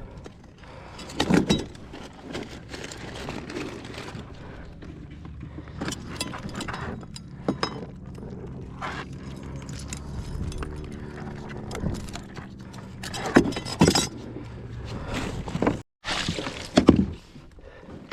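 Irregular knocks, clinks and rattles of gear being handled, over a steady low hum, with a brief dropout near the end.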